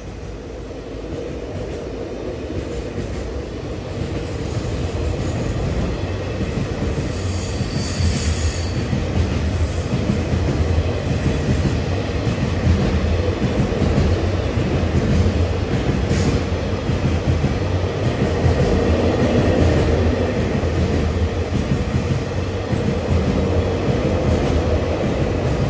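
Freight train of boxcars and container flatcars rolling past: a steady rumble of steel wheels on rail that grows louder over the first few seconds. Brief high-pitched wheel squeals come about seven to nine seconds in and again around sixteen seconds.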